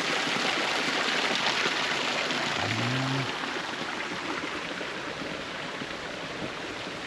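Running water of a mountain stream, a steady rushing that drops a little in level about three seconds in. Just before that drop there is a brief low hum from a person.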